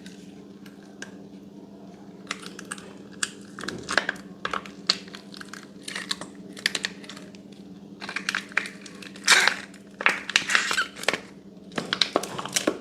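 Slime being squeezed and pressed by hand, giving irregular clusters of crackly pops and clicks, busiest in the second half. A faint steady hum runs underneath.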